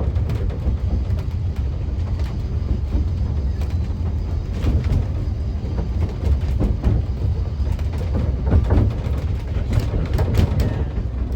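Narrow-gauge railway carriage running along the track: a steady low rumble with irregular clicks and knocks of wheels and couplings.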